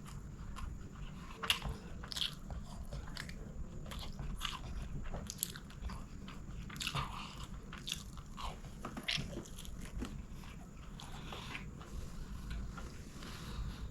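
Close-miked eating of chicken biryani: chewing with irregular wet mouth clicks and crunches, over a low steady hum.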